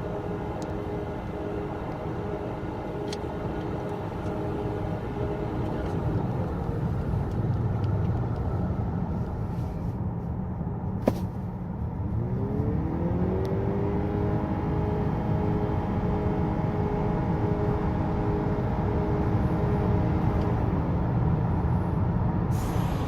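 2018 Honda Accord Hybrid accelerating, with a steady road and tyre rumble. About halfway through, the 2.0-litre four-cylinder engine winds up quickly, then holds one steady pitch with no gear shifts, as the two-motor hybrid system has no conventional transmission. A single click comes just before the engine winds up.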